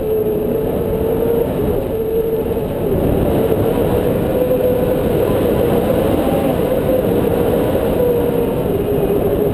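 Wind rushing over the microphone in flight under a paraglider, a steady loud roar with a faint, slightly wavering whistle-like tone running through it.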